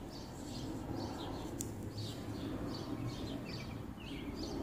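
Small birds chirping: short, high calls repeated about twice a second, with a few lower falling notes near the end. A low steady rumble runs beneath them.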